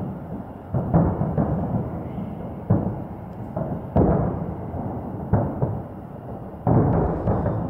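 Fireworks salute shells bursting: about six deep booms over several seconds, each with a long rolling echo.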